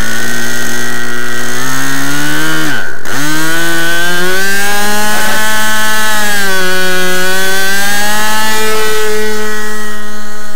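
ASP 61 glow engine of a radio-controlled model plane running loud in flight, its pitch rising and falling with the throttle and the plane's passes. About three seconds in the pitch drops sharply and then picks back up.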